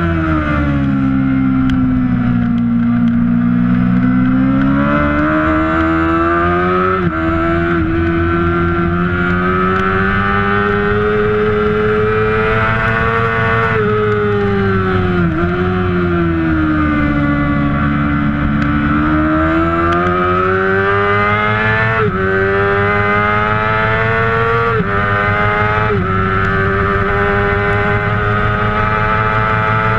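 Kawasaki Ninja ZX-6R 600cc inline-four racing engine under hard use on track, its pitch falling as it slows for corners and rising as it accelerates. Sharp steps in pitch about 7 s, 22 s, 25 s and 26 s in are gear changes.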